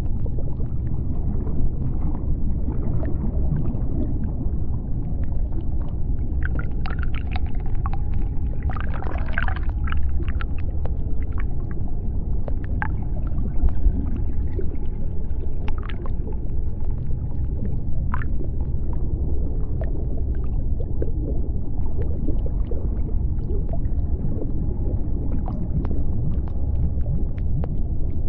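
Underwater ambience: a steady low rumble with scattered short clicks and crackles. There is a brief cluster of higher, brighter sounds about six to ten seconds in.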